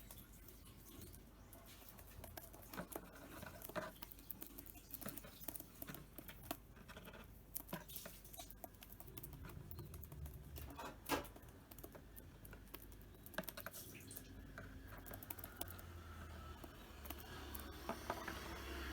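A cockatiel pecking at its food, making irregular light clicks and taps with one sharper click about eleven seconds in.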